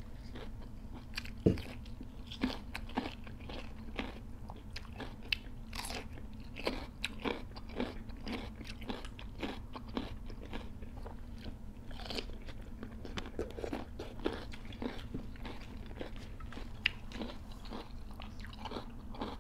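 Close-up crunching and chewing of crisp raw cucumber: many short, irregular crunches, with one sharper bite about a second and a half in.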